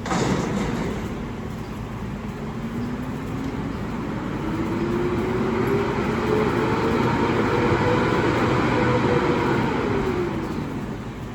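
Garbage truck engine revving up slowly, holding high revs for a few seconds, then dropping back near the end, after a sudden burst of noise right at the start.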